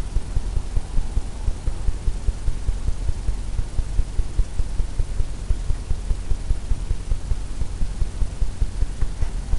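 A low, steady hum with rapid throbbing pulses, several a second.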